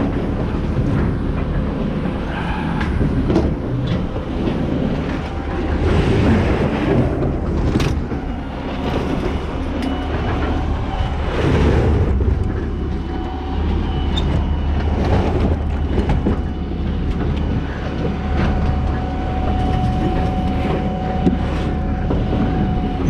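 A large engine running steadily with a deep rumble, mixed with repeated clanks and knocks of scrap metal and tools.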